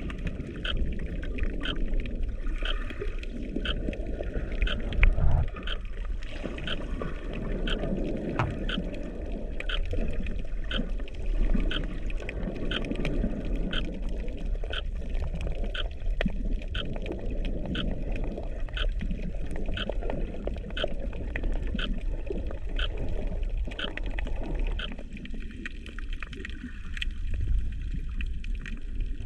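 Underwater sound picked up through a GoPro's housing: a steady, muffled low rumble of moving water, with a regular series of faint ticks, about three every two seconds. The rumble eases off near the end.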